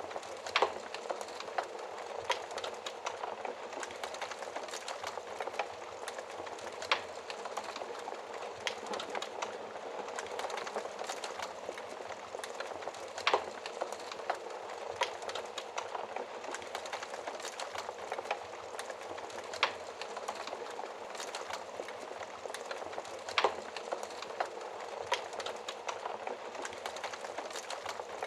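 Wood fire crackling steadily, with sharp pops every few seconds.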